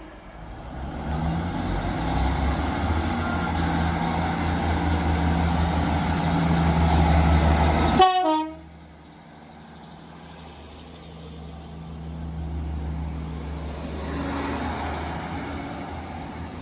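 A train passing close by: its rumble and engine hum build over several seconds to a peak, then cut off abruptly. A quieter train rumble follows, swelling and fading.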